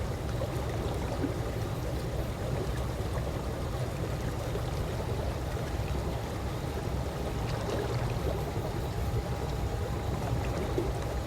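Calm swimming-pool water moving gently, a steady water sound with small trickles over a constant low rumble.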